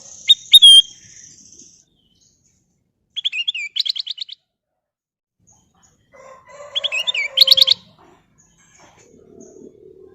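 Kutilang emas (a bulbul) singing three short phrases of quick, sweet whistled notes a few seconds apart, the last phrase the longest.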